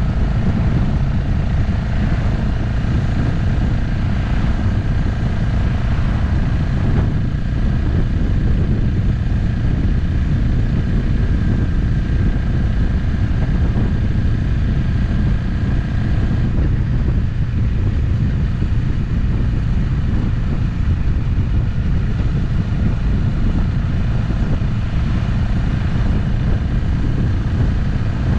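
Motorcycle cruising at a steady speed: the engine runs evenly under a heavy low rumble, with a faint steady whine higher up.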